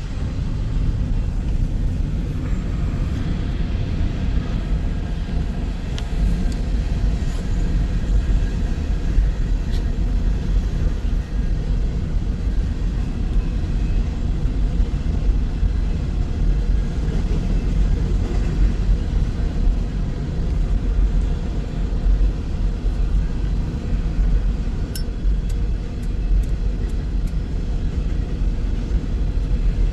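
Freight train rolling past: a steady low rumble of wheels on rail, with a few sharp clicks about 25 seconds in.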